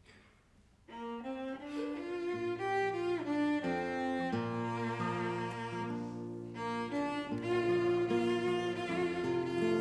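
Bowed string instruments, cello and violin, starting to play a slow piece together about a second in, with sustained notes over a low bass line.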